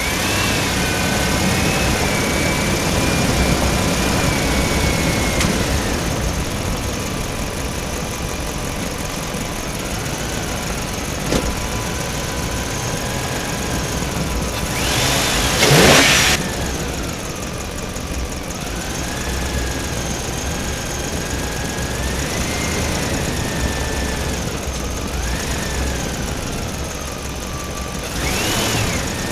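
A motor or engine running steadily, with a whine that wavers up and down in pitch. Twice, about halfway through and again near the end, a brief swooping sound rises and falls, and the first of these is the loudest moment.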